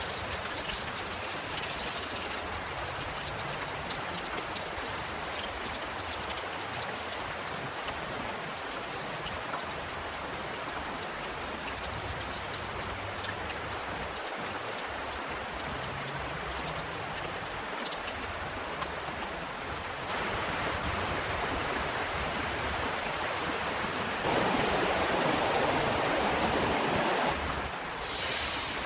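Heavy rain falling steadily: a constant hiss with scattered drop ticks. It gets louder about twenty seconds in, and louder still for a few seconds near the end.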